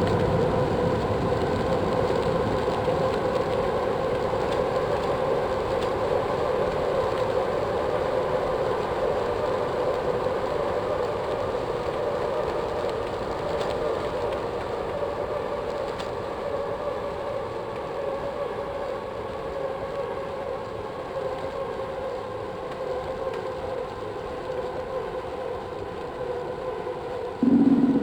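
A steady mechanical whine over a rushing noise, slowly growing quieter. Just before the end, music starts abruptly and loudly.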